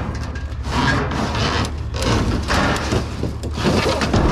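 Rummaging through junk in a dumpster: irregular scraping, rattling and rustling of items being shifted and handled, over a steady low rumble.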